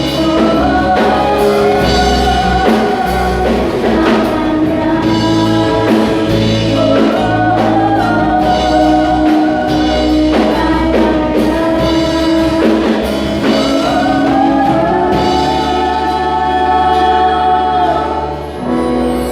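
Church praise-and-worship band playing with singers: sung melody over keys, bass and drum kit. Near the end the drums and bass drop out, leaving held tones.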